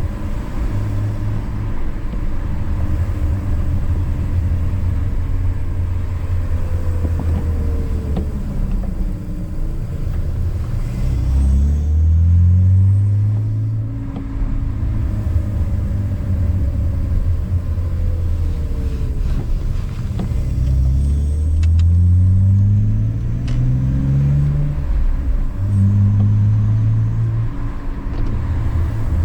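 BMW E46 inline-six engine with a K&N cone air intake, heard while driving. It runs at a steady cruise, and twice, about a third and two-thirds of the way through, its pitch climbs in steps as the car accelerates through the gears.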